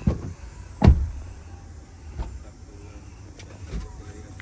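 A series of short, dull low thumps at irregular intervals, the loudest about a second in, over a steady low rumble.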